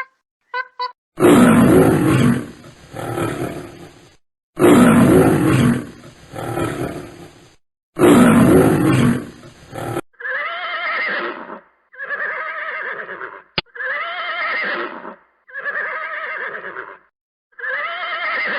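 Animal calls: three long, loud roars, each trailing off into a fainter second part, followed by five shorter, high, wavering calls with a clear pitch.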